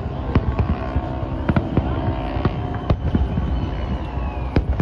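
Aerial firework shells bursting in a rapid, irregular string of bangs over a steady low rumble. A faint whistle falls slowly in pitch about halfway through.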